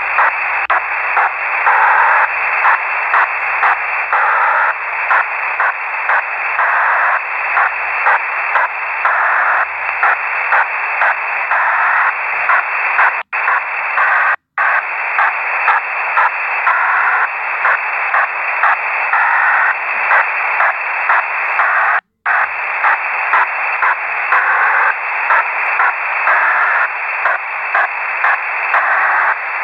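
Unidentified shortwave radio signal heard through a web software-defined radio receiver: a dense hiss that pulses in quick, uneven beats, confined to a narrow voice-like band. It drops out briefly three times, around the middle and again later.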